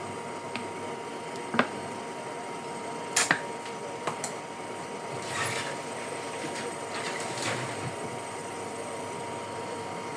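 Steady background hiss with a few brief light clicks and knocks, and a couple of soft rustling swells around the middle: small kitchen handling sounds.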